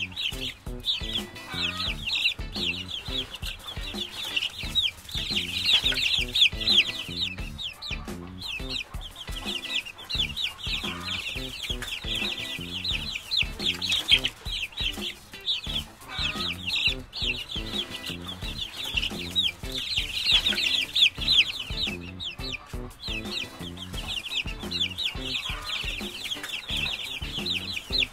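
A flock of chickens clucking and calling together: a dense, continuous chatter of many short, high calls overlapping.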